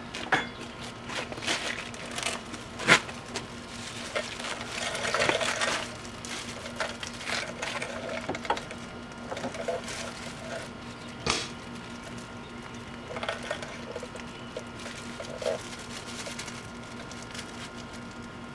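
Hand work on metal: intermittent clinks, knocks and short scrapes of tools and parts, with a longer scrubbing noise about five seconds in, over a steady low hum.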